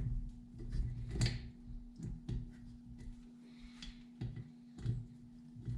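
Light clicks and knocks of hand tools and small metal parts being handled while the chainsaw is taken apart, with a sharper knock about a second in, over a steady low hum.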